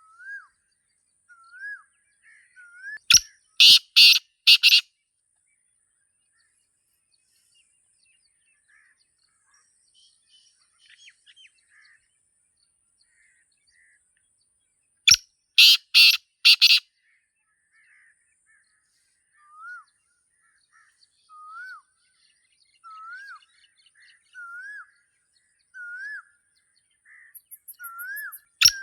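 Black francolin (Sindhi teetar) calling twice, loudly: each call is a quick run of about five short notes, the first about three seconds in and the second about halfway, with a third call starting at the very end. Between the calls a smaller bird repeats soft, short rising-and-falling chirps about every second or so.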